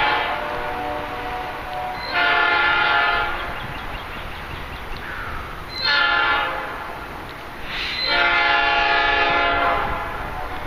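Train's locomotive air horn sounding a long, long, short, long sequence of chord blasts, the standard grade-crossing signal of an approaching train.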